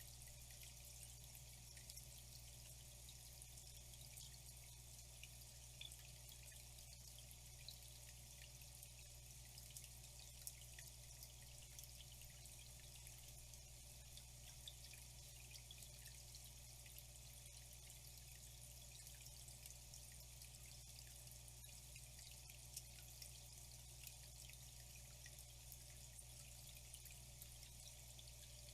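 Faint, steady trickle of flowing water, with many small dripping ticks scattered through it and a low steady hum underneath.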